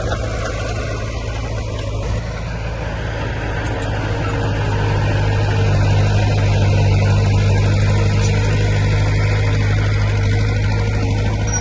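Heavy earthmoving machine's diesel engine running steadily with a low hum, growing somewhat louder about halfway through.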